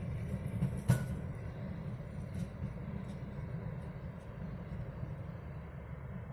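Train Jaune electric railcars running away over the tracks, a steady low rumble that fades as they go. One sharp click about a second in and a few fainter ones come from the wheels passing over rail joints and points.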